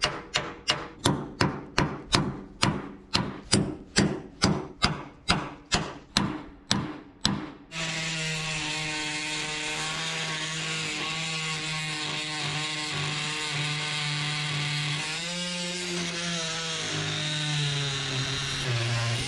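About three sharp strokes a second for the first seven or eight seconds, then a power tool running steadily while cutting into the corroded metal of a sailboat's mast base, its pitch dropping a few times near the end.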